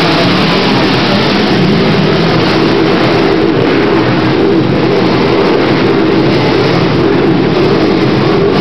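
Loud racing quad (ATV) engines running and revving on the track, with the pitch rising and falling as they accelerate.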